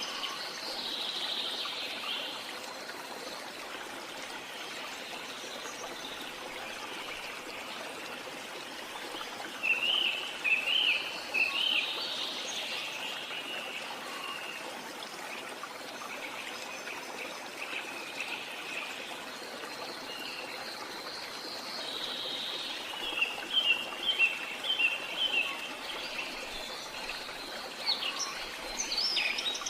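Waterfall's steady rush of running water, with birds chirping over it: a quick flurry of chirps about ten seconds in and a string of repeated chirps a little past the twenty-second mark.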